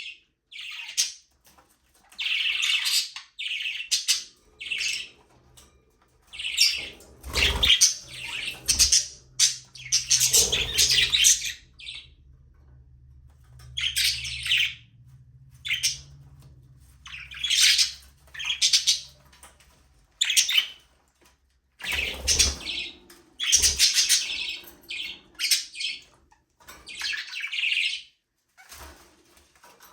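Budgerigars chattering and chirping in short bouts with brief pauses between them, with a few dull low thumps among the calls.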